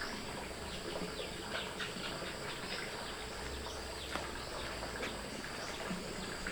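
Outdoor country ambience: birds chirping in many short, quick downward notes over a steady high insect drone.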